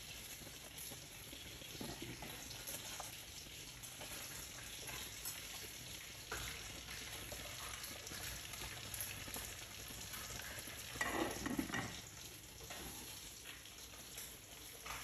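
Food frying, a steady crackling sizzle, with one brief louder noise about eleven seconds in.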